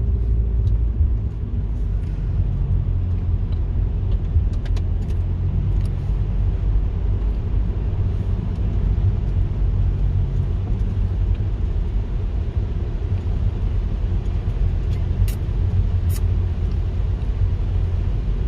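Steady low rumble of a car's engine and tyres heard from inside the cabin, driving on a snow-covered road, with a few faint clicks.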